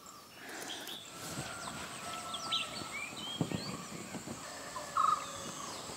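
Rural outdoor ambience: birds chirping and calling on and off over a steady high-pitched hum, with a short louder pulsed call about five seconds in.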